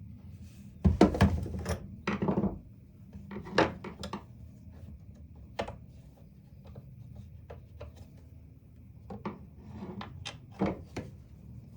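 Scattered knocks, taps and rubbing from a reciprocating saw's housing and parts being handled and fitted together, with the loudest cluster of knocks about a second in.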